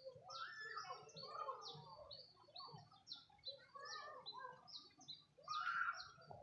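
Birds calling: a steady run of short, high chirps, about three a second, over lower warbling calls, with a louder call near the end.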